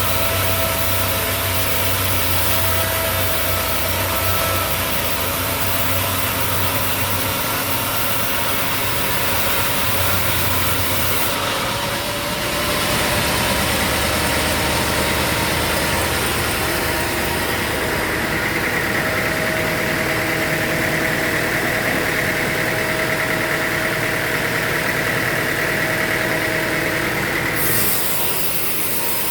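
A steady engine running with machinery noise. The sound changes abruptly about eleven seconds in and again near the end.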